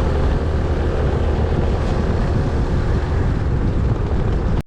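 Small motorbike engine running steadily under way, mixed with wind rushing over the microphone. The sound cuts off suddenly at the very end.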